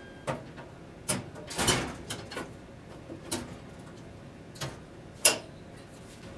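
Hospital scrubs vending machine being worked: about eight irregular sharp clicks and knocks of its door and drawer mechanism, the loudest about five seconds in.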